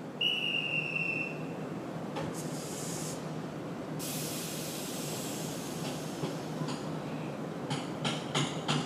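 A short high whistle near the start, then a long hiss of compressed air from the Iyo Railway 700 series electric train. Near the end, irregular clacking as the train starts to pull away.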